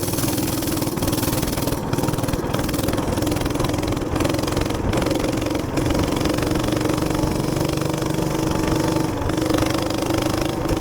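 Minibike's small gas engine running steadily, with a constant hum and a wash of wind and road noise.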